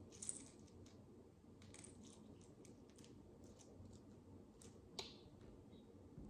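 Faint, scattered clicks and light rattles of tiny plastic micro building bricks being handled and pressed together. The sharpest click comes just after the start, with another about five seconds in.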